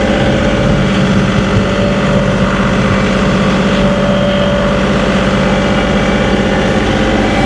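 John Deere 2038R compact tractor's three-cylinder diesel engine running steadily at constant speed, heard from inside the cab.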